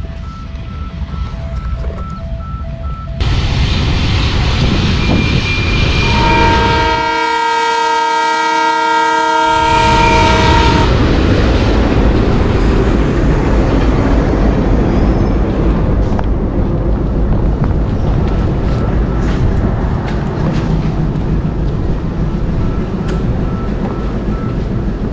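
Diesel locomotive hauling a passenger train along a station platform, its engine and wheels rumbling loudly from about three seconds in. The horn sounds one long blast of about five seconds, then the coaches roll past with their wheels clacking.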